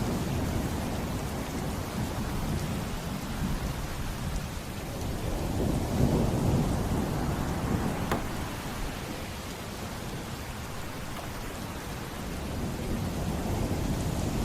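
Thunderstorm ambience: steady heavy rain with low rolling thunder that swells about six seconds in, and a single sharp tick near the middle.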